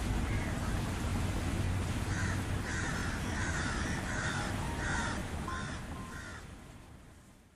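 A bird giving a run of about seven harsh calls, starting about two seconds in, over a steady low background rumble. The sound fades out near the end.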